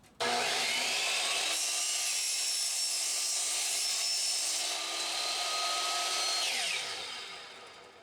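Power saw cutting through a ride-on railroad rail. It starts suddenly, runs steadily for about six seconds, then its motor spins down with a falling whine near the end.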